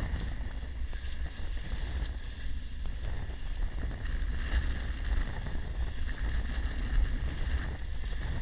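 Wind buffeting the microphone: a steady low rumble with an even rushing hiss over it, unbroken throughout.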